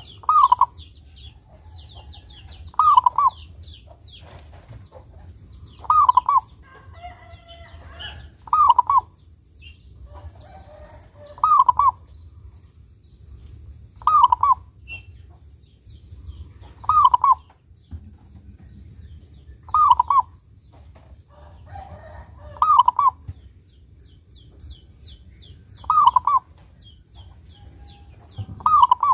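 Zebra dove (perkutut) cooing: a short burst of a few falling coo notes, repeated at an even pace about every three seconds. Fainter high, thin chirping runs underneath.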